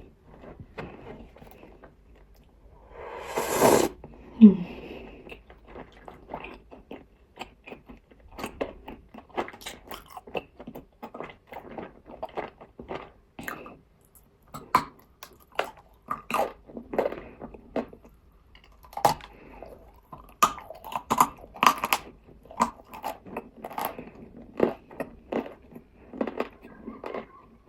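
Close-up biting and chewing of nzu, the dried edible white clay, as a string of irregular crisp crunches. A longer, louder crunch comes about three and a half seconds in.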